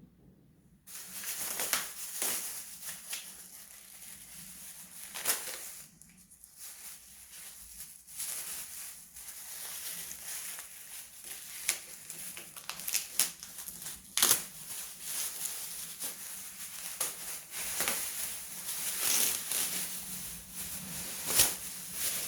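Irregular crinkling and crunching with many sharp clicks, starting about a second in.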